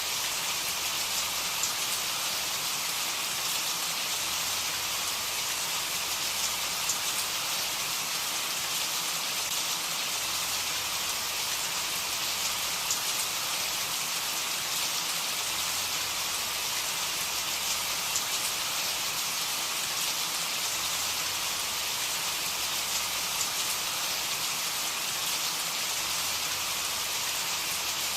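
Steady rain falling, with a dense hiss and scattered small drop ticks.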